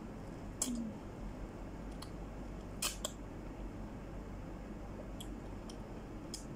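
Close-up eating of soft fruit: a few sharp, crisp mouth clicks from biting and chewing, the loudest about half a second in and a pair around three seconds, over a steady low hum.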